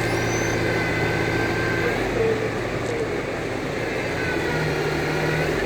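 Road traffic: vehicle engines running and passing over a steady haze of road noise.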